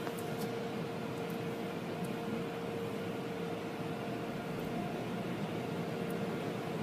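Steady machine drone with a constant mid-pitched hum.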